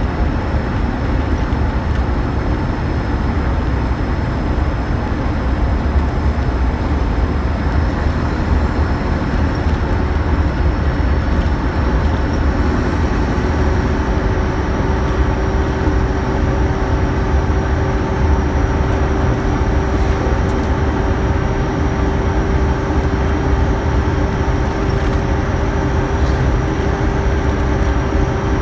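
Scania K112CL coach running steadily, its diesel engine rumbling under continuous road and running noise, with a steady hum that becomes stronger about halfway through.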